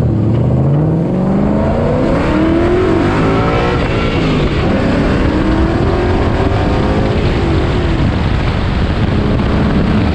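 Ford 5.0 Coyote V8 in a 1999 Mustang GT accelerating: its pitch rises for about four seconds, drops at a gear change, climbs again through the next gear, then settles to a steady cruise near the end. Tyre and road noise run underneath.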